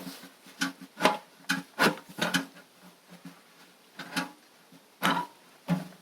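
Sap bucket and its cap knocking and clattering as the cap is fitted over the bucket hung on a tapped maple: an irregular string of sharp knocks, a few with a brief low ring.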